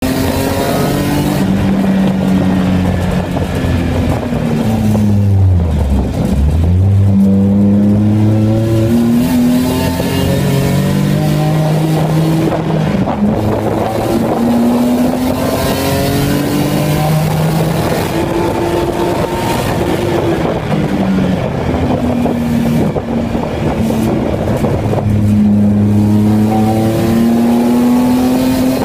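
Race car engine heard from inside the caged cabin under hard driving. Its pitch climbs under acceleration and drops back at each gear change, and about five seconds in it falls low and then climbs again steeply.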